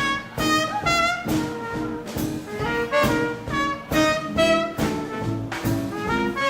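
Live 1940s-style swing band playing an instrumental passage, with trumpets, trombones and saxophone over a steady drum beat.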